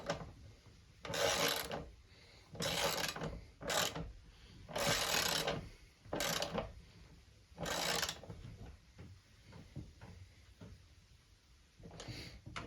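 Hand work on a dirt bike's aftermarket exhaust: a series of short rasping, rubbing strokes, about six in the first eight seconds, then quieter scattered handling noises.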